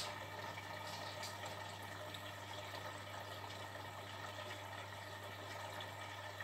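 Beko WTB740E1W washing machine refilling with water between wash stages: a steady rush of water running into the machine over a constant low hum.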